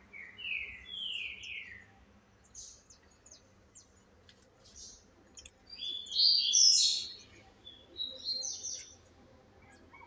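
Songbirds singing: a run of four falling whistled notes in the first two seconds, then a louder burst of high chirping notes around six to seven seconds and a shorter burst near nine seconds.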